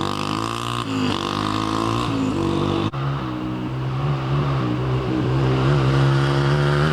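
A 2000 Yamaha TTR125's single-cylinder four-stroke engine under way, loud through an exhaust opened up with a washer mod. Its pitch rises and falls in steps for the first few seconds, then holds a steadier, slowly rising note after a brief dropout about three seconds in.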